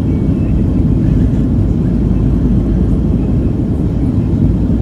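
Steady, loud rumble of a Boeing 737-700's CFM56-7B engines and airflow heard inside the passenger cabin from a seat over the right wing.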